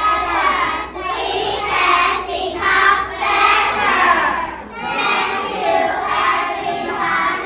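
A group of children singing together, in held phrases of about a second each with short breaks between them.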